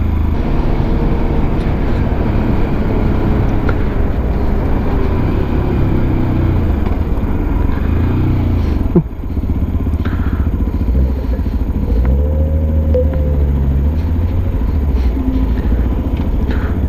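Peda Tekken 250 motorcycle engine running under way, with wind rush over it. The engine note falls over the first several seconds as the bike slows, dips briefly about nine seconds in, then rises again as it picks up speed.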